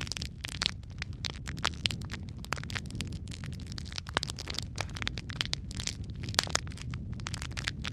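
Wood fire crackling in a fireplace: a steady low rumble of burning with frequent irregular snaps and pops, a few of them louder.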